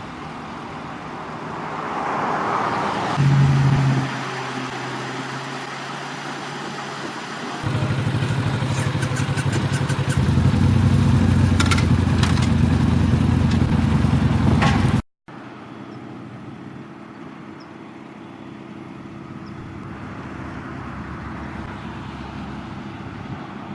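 Motor vehicle engine running steadily with a low, even hum. It grows louder about eight seconds in, then cuts off abruptly about fifteen seconds in. Quieter traffic noise follows.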